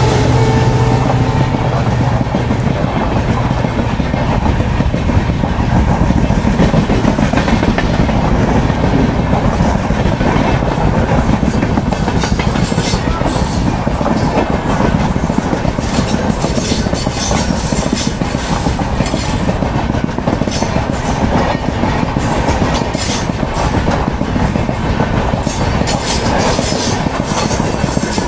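Passenger coaches of an express train rolling past at full speed close by: a steady rumble of steel wheels on rail, with a rapid clickety-clack of wheels over rail joints that grows sharper from about halfway through. The steady note of the WDP4D diesel locomotive that has just passed fades out in the first second.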